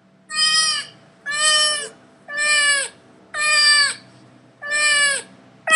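Domestic cat meowing over and over, about one meow a second, six in all.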